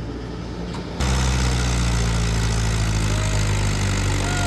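Tractor diesel engine running steadily, getting suddenly louder about a second in.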